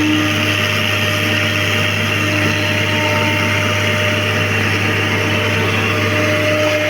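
Excavator's diesel engine running steadily, a constant low drone with a few steady tones above it.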